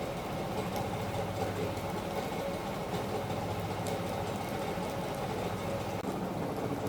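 A machine running steadily, with a low hum and a few faint ticks.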